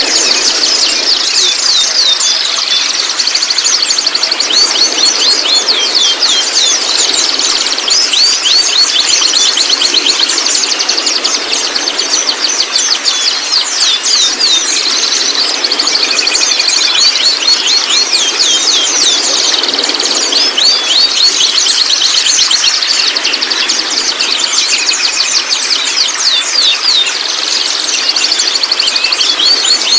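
Young white-rumped shamas twittering and chattering in fast, dense, high-pitched chirps, going on without a break as a lure to get a juvenile shama to sing.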